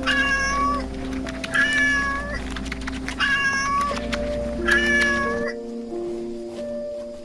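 Four short, high-pitched animal calls, each held on one note and dropping at the end, about a second and a half apart, over background music; the calls stop about five and a half seconds in and the music carries on.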